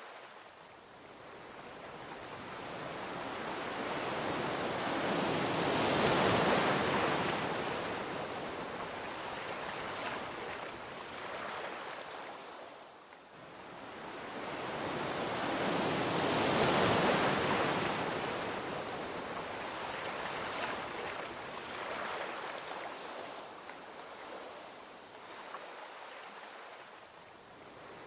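Gentle ocean waves washing onto a beach: two slow swells of surf, the first peaking about six seconds in and the second about seventeen seconds in, each falling back to a soft hiss of receding water.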